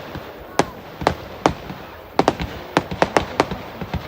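Fireworks going off as a series of sharp cracks: a few spaced reports in the first two seconds, then a quick volley of a dozen or so.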